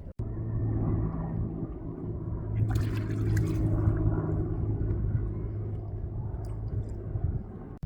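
Ducks splashing as they bathe in river water, with one stronger burst of splashing about three seconds in, over a steady low rumble.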